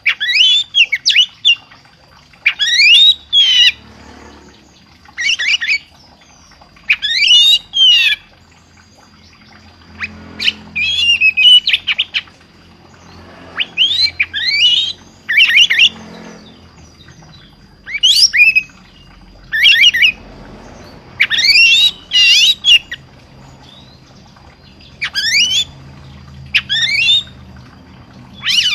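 A songbird singing loud, short phrases of sweeping whistled notes, repeated every second or two with brief pauses between them.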